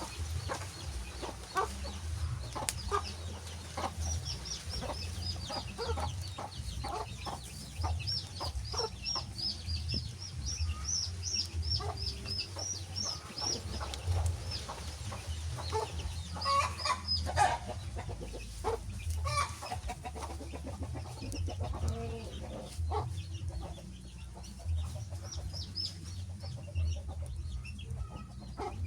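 Wood fire crackling over steady rain, with a bird chirping in a rapid run of high calls from a few seconds in for about ten seconds, and scattered calls later.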